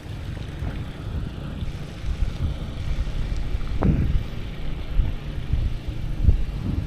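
Wind buffeting the microphone on a moving bicycle, a low rumble, with one brief knock about four seconds in.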